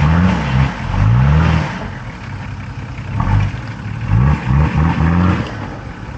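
Off-road 4x4's engine revved in repeated short throttle blips, each a quick rising rev, easing off about two seconds in before a second run of blips. The driver is working the throttle to get a wheel out of a hole.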